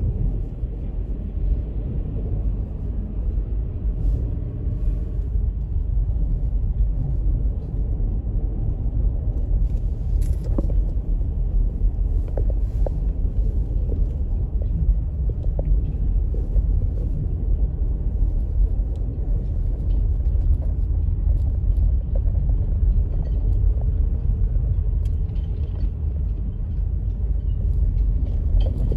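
Steady low rumble with a few faint ticks on top.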